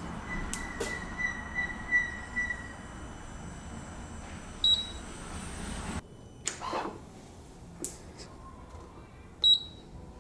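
Electronic ECU flashing tool working on a Yamaha R1 motorcycle during the ECU flash: a faint steady high whine for the first few seconds, then two short high beeps about five seconds apart, with a few light clicks.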